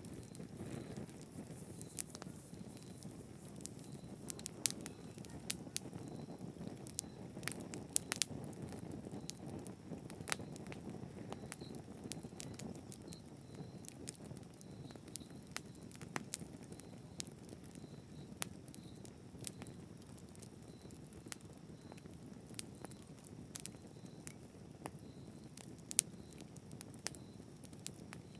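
Campfire burning: a steady low rush of flames with frequent, irregular sharp crackles and pops from the burning wood.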